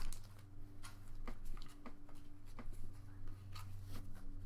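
Pokémon trading cards being handled and slid over one another, a string of soft scattered clicks and rustles over a steady low electrical hum.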